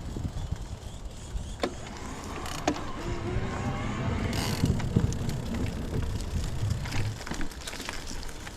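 Wind rumbling on the microphone and tyre noise from an e-bike rolling along a path, with a few scattered clicks and knocks.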